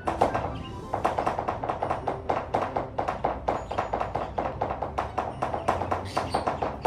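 Quick rhythmic tapping, about four taps a second and evenly kept, along with music.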